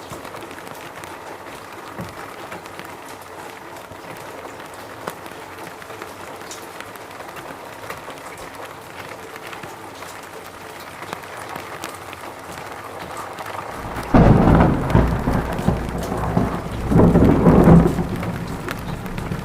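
Steady rain falling, then a sudden loud rumble of thunder near the end that swells twice before fading back into the rain.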